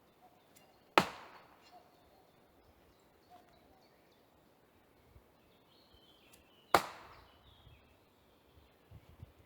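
Two throwing knives striking a target, one about a second in and one near seven seconds, each a single sharp impact with a short fading ring.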